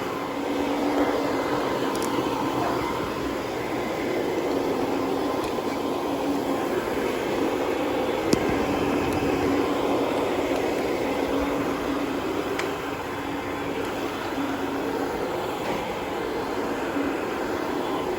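Carpet-cleaning machine running steadily, a continuous mechanical hum and rush with a faint whine, and a single sharp click about eight seconds in.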